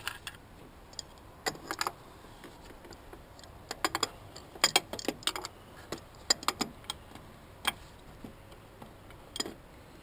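Irregular sharp metallic clicks and clinks of hand tools on engine bolts, single and in short clusters, as the bolts of a freshly rebuilt engine are checked for tightness.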